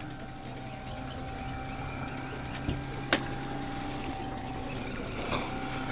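Boat engine running steadily, with a couple of short knocks about three seconds in.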